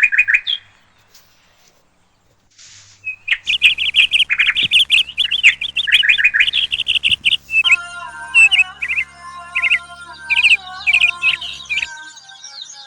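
Small birds chirping: a few quick chirps, a short pause, then a long run of rapid, high chirps over a steady low hum that cuts off abruptly near the end.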